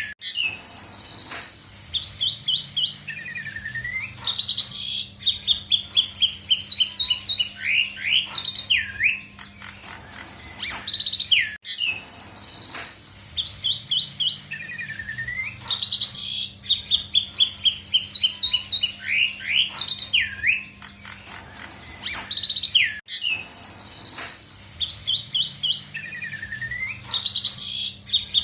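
Asian pied starling (jalak suren) singing a long, varied song of clear whistles, fast runs of repeated notes and falling slurred notes. The same song sequence repeats about every eleven seconds, with a brief gap between repeats, over a steady low hum.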